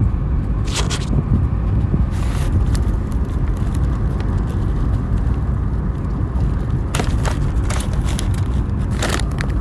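Steady low rumble of car road noise heard from inside the cabin, with a few brief crackles and clicks scattered through it.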